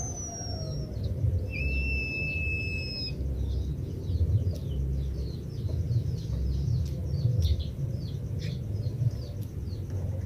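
White-headed munia singing: a long, steady drawn-out whistle, then a run of quick short falling chirps, about two or three a second, over a constant low rumble.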